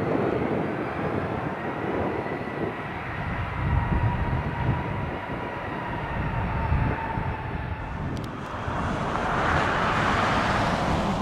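Jet airliner engines running with a steady turbine whine over a low rumble. Near the end a louder rush of jet noise swells in. Gusty wind buffets the microphone.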